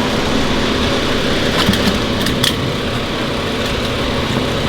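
A car engine idling steadily. A few light clicks about two seconds in fit jumper-cable clamps being put on the battery terminals.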